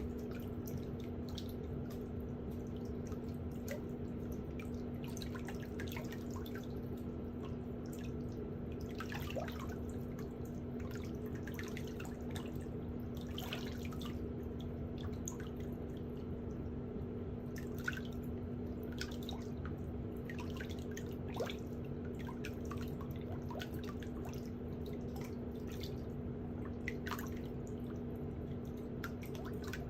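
Many small, sharp clicks and scrapes of hand-held pedicure tools working on toenails, scattered unevenly, over a steady low electric hum with a constant tone.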